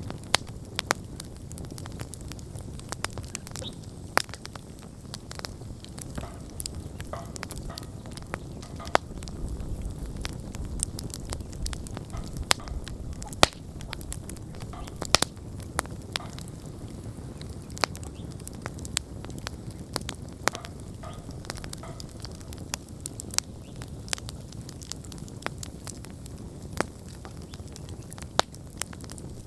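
Wood campfire burning, with sharp crackles and pops at irregular intervals over a steady low rumble of flames.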